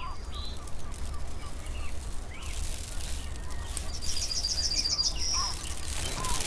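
Woodland birds chirping, with a run of short low chirps and a fast high trill about four seconds in, followed by a brief whistled note, over a steady low rumble.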